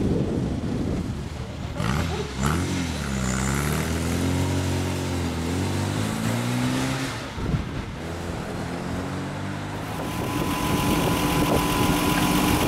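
Classic car engines running at a rally start line. About two seconds in, one engine revs up and holds its note, wavering in pitch, for about five seconds. From about ten seconds in, an engine hums steadily at idle.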